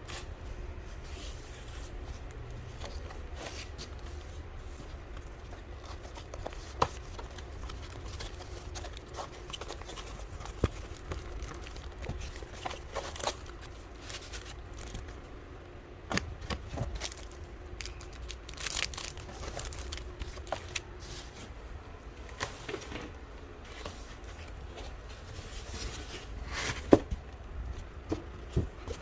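Packaging being unpacked by hand: plastic wrap crinkling and tearing, with scattered sharp clicks and knocks, the loudest near the end.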